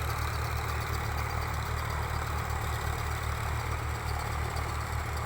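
Tractor diesel engine running steadily nearby with a low, even throb.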